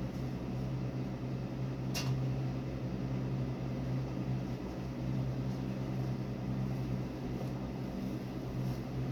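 A small electric motor running with a steady low hum, and one short click about two seconds in.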